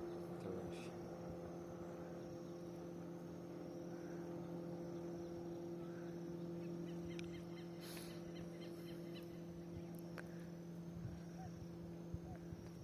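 Boat motor running at a steady speed: an even, low hum. A few short bird chirps come in about seven seconds in.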